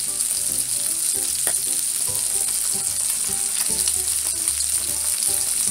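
Salmon fillets frying in oil in an electric skillet: a steady sizzling hiss.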